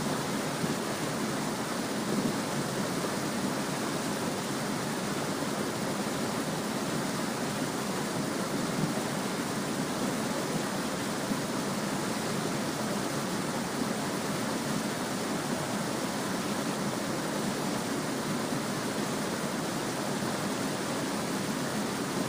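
Small stream babbling steadily over stones, an even rushing of water with no pauses.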